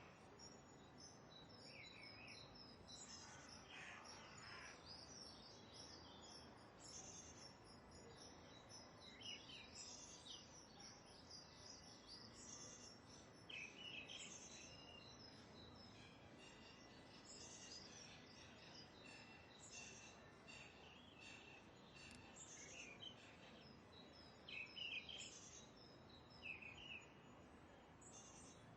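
Faint chorus of small birds chirping, many short high calls overlapping throughout, over a low steady background hiss.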